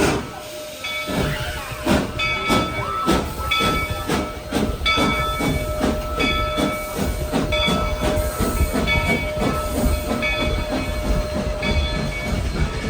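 Narrow gauge steam locomotive working, its rhythmic exhaust chuffs coming closer together as it gathers speed, over a low rumble and a steady tone.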